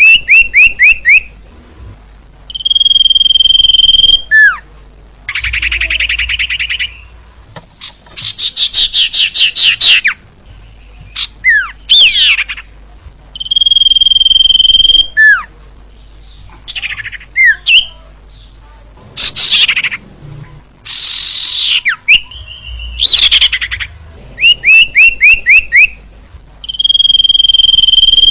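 Common iora (cipoh) song played as a bird-keeper's training recording: long steady whistles, rapid chattering trills and falling whistled notes. The same phrases come back about every eleven seconds.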